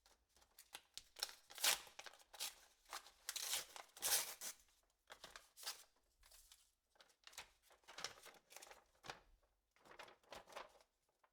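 Paper tearing and crinkling in short, irregular bursts: an envelope being torn open and the letter inside handled.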